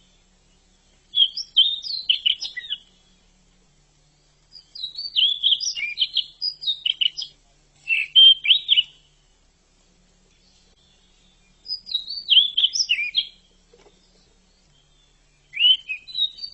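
Pied bushchat (decu) singing: five short phrases of quick, jumbled high-pitched warbling notes, each one to three seconds long, with pauses of a second or two between them.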